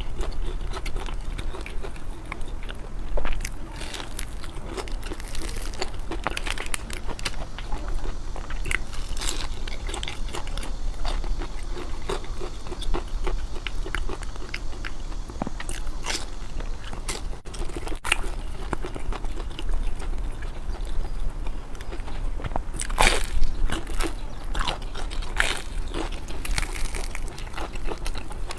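A person biting and chewing food close to the microphone: a steady run of small crunches and mouth clicks, with louder bites about three seconds in and again near the end.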